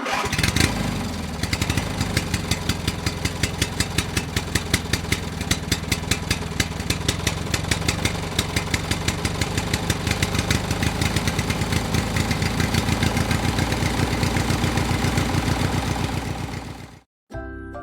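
Small engine of a home-built mini tractor running steadily with a regular pulsing beat; it stops abruptly near the end.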